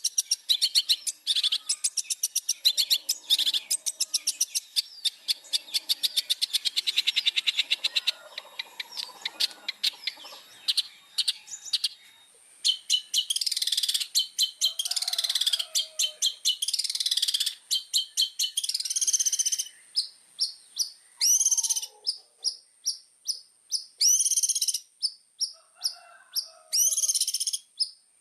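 Long-tailed shrike singing. First comes a fast chattering run of rapid repeated high notes for about twelve seconds, then louder, harsh squeaky phrases with short pauses between them. A thin steady high tone sounds underneath from about halfway.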